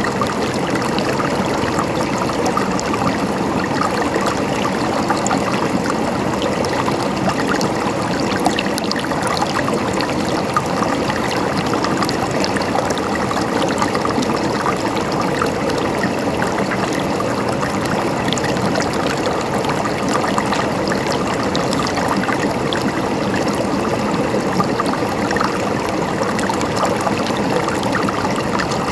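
Water flowing and trickling steadily in a stream, an even rushing with small splashing and gurgling detail.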